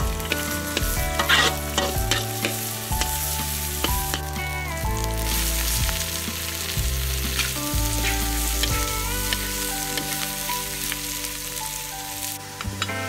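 Chicken gizzards with garlic and green onion sizzling in hot oil in a wok as they are stir-fried, a metal spatula stirring and scraping the pan.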